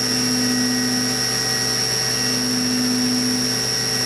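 Haas VF-2B CNC milling machine running a 1/8" end mill through a brass bar during a spiral cutoff, with a steady high whine. Under it a lower hum comes and goes about every two seconds.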